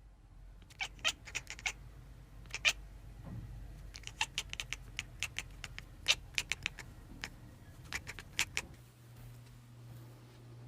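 Quiet series of sharp, irregular clicks or taps, about twenty over eight seconds. A faint low steady hum comes in near the end.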